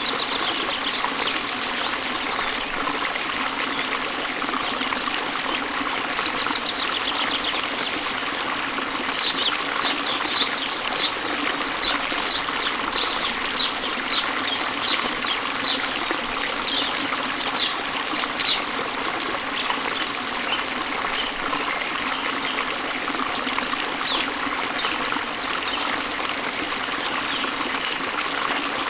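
Steady rushing water of a waterfall. Over it a songbird gives a run of short high chirps, about two a second, from about a third of the way in until past the middle, with a few more scattered chirps elsewhere.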